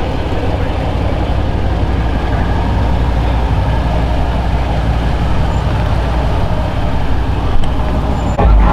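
A car engine running loudly with a deep, steady low rumble that slowly grows louder, then steps up sharply near the end.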